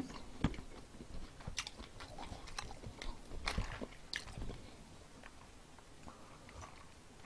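Crunchy bites and chewing of perilla-leaf fried chicken with a crisp, vegetable-fritter-like batter. The sharp crackles are spread through the first four seconds or so, then give way to softer chewing.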